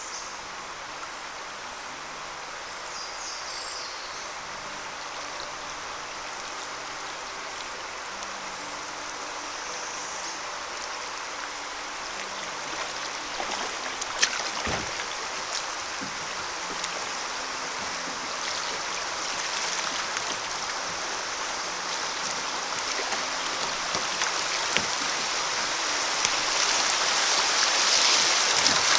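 Creek water rushing over a riffle, a steady hiss that grows louder toward the end, with one sharp knock about halfway through.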